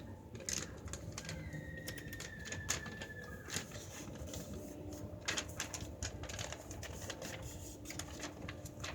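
Sheet of paper being folded and creased by hand: faint, irregular crinkles, rustles and small taps.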